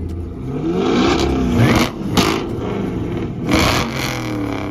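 A car engine being revved hard several times. Its pitch climbs and falls with each rev, and loud blasts of exhaust noise come about a second in, around two seconds in, and again past three seconds.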